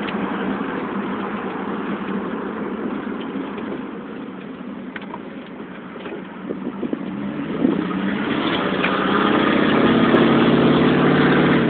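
1996 Jeep Grand Cherokee's 5.2-litre (318) V8 running through an exhaust with no muffler: steady at first, easing off in the middle, then rising in pitch as the throttle opens about seven seconds in and pulling hard and loud to the end.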